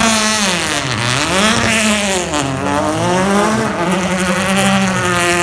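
Touring car racing engines revving hard and changing gear, the pitch climbing and dropping several times, with more than one car running at once.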